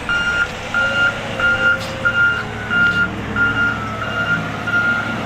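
Heavy equipment's backup alarm beeping steadily, about two beeps a second, over a diesel engine running.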